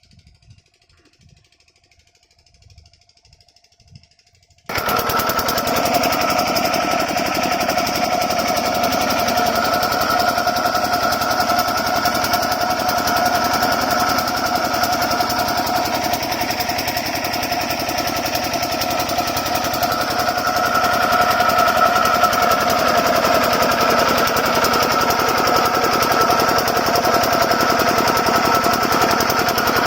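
A 5 HP diesel water-pump engine, a single-cylinder diesel, comes in loud about five seconds in and keeps running steadily with a rapid knocking beat.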